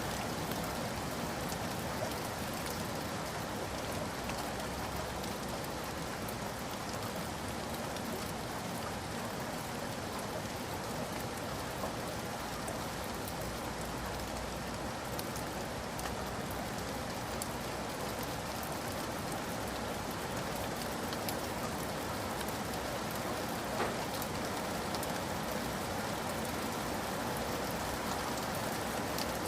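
Steady rain falling, an even wash of drops with a few sharper single drips standing out, one a little louder about three-quarters of the way through.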